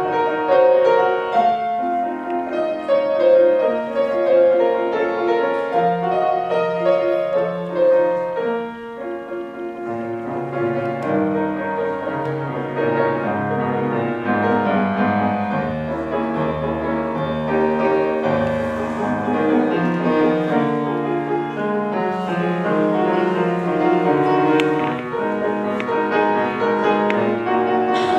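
Solo piano playing a classical piece, with a softer passage about a third of the way in before it grows fuller again.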